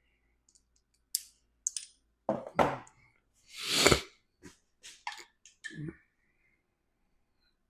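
Scattered clicks and knocks of tools and engine parts being handled during a camshaft install, with a short hissing rustle about three and a half seconds in that is the loudest sound.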